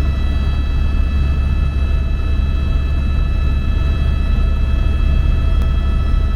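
Helicopter running in flight, heard from inside the cabin: a steady low drone from the rotor and engine with several constant high whining tones over it.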